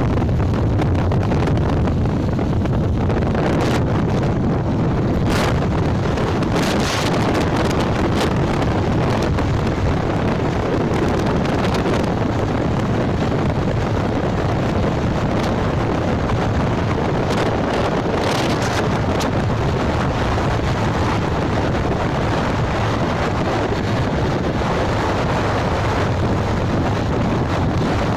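Wind buffeting the microphone of a moving motorcycle, a steady loud rumble over the engine and road noise, with a few sharper crackles from gusts.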